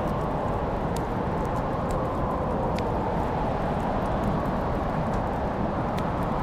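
Wood fire burning in a fireplace: a steady low rush with a few sharp crackles and pops scattered through it, about three of them standing out.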